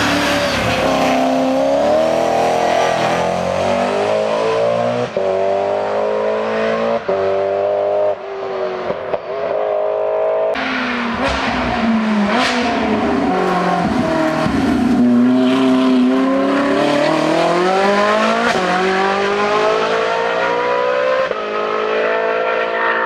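Hill-climb race car engines accelerating hard up the course, the engine pitch climbing through each gear and dropping sharply at the gear changes. The sound eases briefly, then swells loud again about ten seconds in with more rising revs and shifts.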